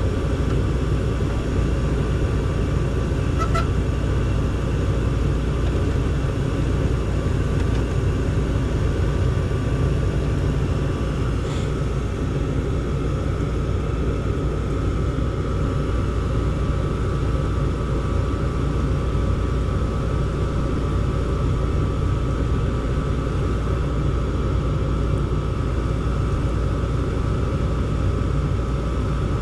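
Gas furnace running: a steady low rumble with a faint high whine that grows stronger partway through.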